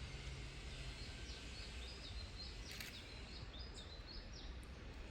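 Long-tailed tit calling: a run of a dozen or so short, high notes starting about half a second in and stopping shortly before the end, over a steady low background rumble.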